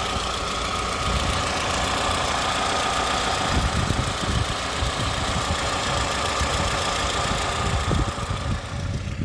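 Toyota 2AZ-FE 2.4-litre inline-four engine running steadily and evenly, with no roughness: a sign of a healthy engine.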